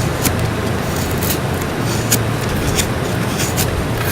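Bark River Bravo 1 knife shaving curls down a stick to make feather sticks: about six short scraping strokes. Under them runs a steady low rumble.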